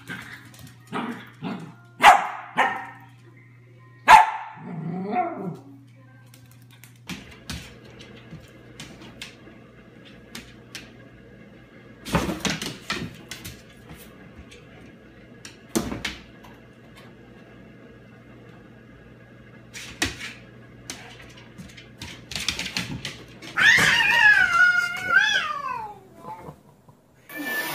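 Small dog yipping and barking while playing with a cat, with two sharp yelps in the first few seconds. Later come scattered knocks, and from about three-quarters of the way in a long, loud, wavering yowl that rises and falls.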